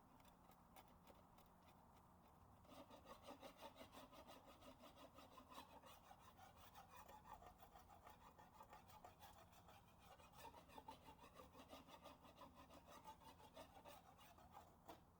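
Hand scraping on a repaired surface: rapid back-and-forth strokes, about two to three a second, starting about three seconds in, faint.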